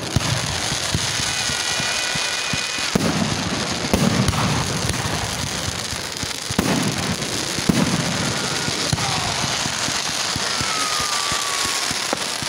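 Consumer fireworks going off: a continuous crackling, hissing spray from ground fountains and roman candles, peppered with sharp pops and small bangs of bursting stars. A few thin whistles sound early on and one falls in pitch near the end.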